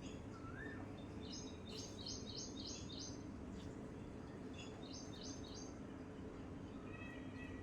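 Songbirds calling: a short rising-and-falling whistle, then two runs of quick repeated high chirps and a thin held whistle near the end, over a steady low background noise.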